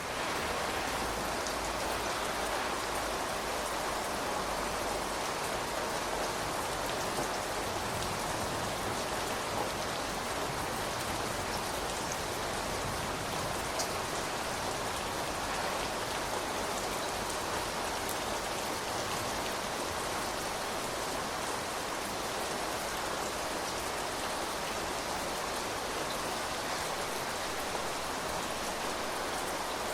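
Steady rain falling: an even hiss of rain, with a few sharper single drop ticks now and then.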